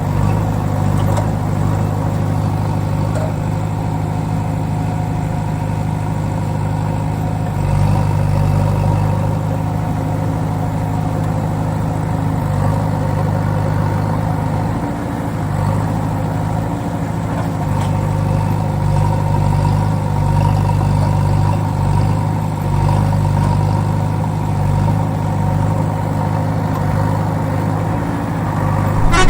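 Heavy vehicle's diesel engine running steadily at an even speed, swelling slightly now and then.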